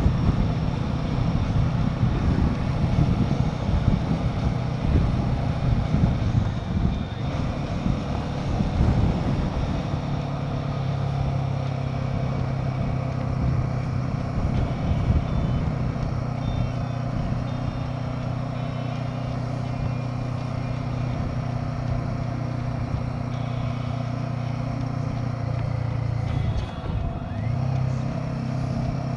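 Royal Enfield Himalayan 450's single-cylinder engine running at a steady cruise. Rough wind rumble on the microphone covers it for about the first ten seconds, after which the engine hum is steady. Near the end the engine note dips briefly and then picks up again.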